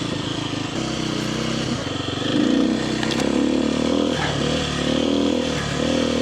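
Kawasaki KLX300R dirt bike's single-cylinder four-stroke engine running under varying throttle on a trail, its pitch rising and falling repeatedly, with a few light clicks.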